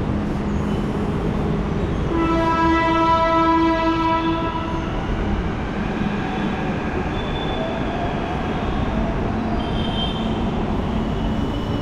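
Steady traffic rumble with one long, steady horn blast lasting nearly three seconds, starting about two seconds in.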